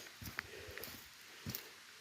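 Footsteps on a steep wooded trail: a few soft, irregular thuds, the strongest about one and a half seconds in, with rustling of leaves and brush.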